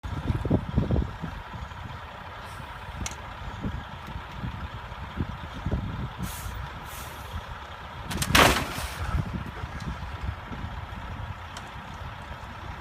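Road vehicle noise: a low rumble with irregular knocks, and one loud hiss about eight seconds in.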